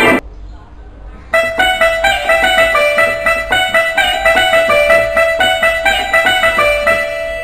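Electronic keyboard played on a banjo-like plucked-string voice. After a brief pause it starts a quick run of picked notes about a second in, over a steady held note.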